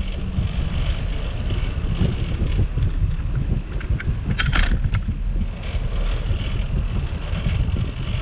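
Wind buffeting the microphone of a camera on a moving bicycle, a steady low rumble, with one brief high-pitched sound a little past halfway.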